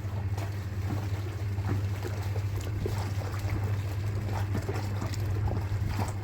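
Washing machine running: a steady motor hum with water sloshing and trickling inside the drum.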